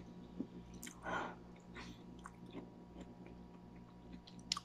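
Close-up chewing of a mouthful of spicy instant noodles, with small wet mouth clicks. A short louder noisy sound comes about a second in, and a sharp click near the end.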